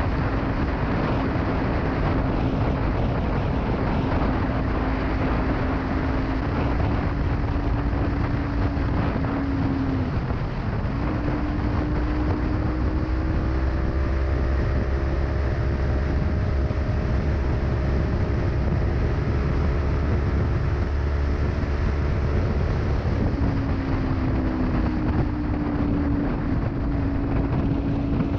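Kawasaki Ninja 300 parallel-twin engine running through a Delkevic aftermarket exhaust at highway speed, a steady engine note that drops briefly about ten seconds in and then slowly climbs in pitch, over wind rumble on the microphone.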